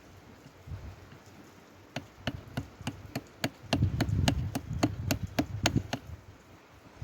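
Rock hammer striking a stone nodule over and over to split it open for a fossil ammonite: about fifteen sharp, ringing knocks at three to four a second, starting about two seconds in, with a low rumble under the later ones.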